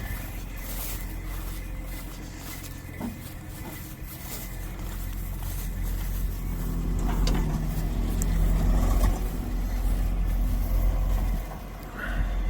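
A motor vehicle's engine running, growing louder from about six seconds in and dropping off shortly before the end.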